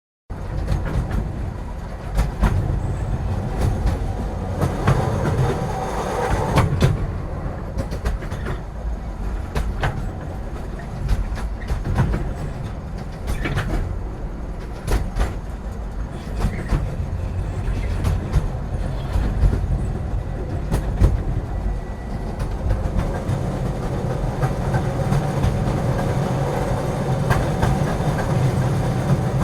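A train running along the track: a steady low rumble with frequent, irregular sharp clicks and clatter from the wheels on the rails.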